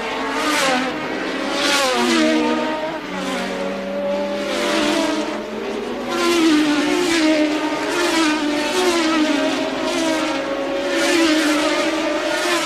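1983-era Formula One cars passing one after another at racing speed, each engine's note swelling and then dropping in pitch as it goes by, with several cars' engines heard at once.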